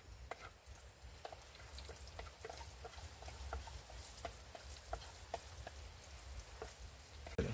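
Fish frying in hot oil, with scattered pops and crackles of spitting oil. A single thump just before the end.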